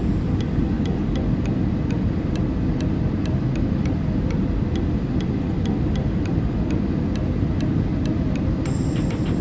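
Airbus A320 cabin noise: a steady low rumble of the engines and airflow heard from a window seat, with faint sharp ticks about two to three times a second over it.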